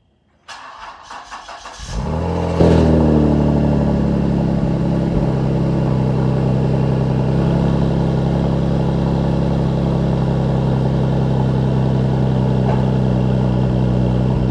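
Cold start of a 2010 Ford Taurus SHO's twin-turbo 3.5-litre EcoBoost V6 through a Livernois/Corsa cat-back exhaust. The starter cranks for about a second and a half. The engine catches with a flare of revs and then settles into a steady fast cold idle.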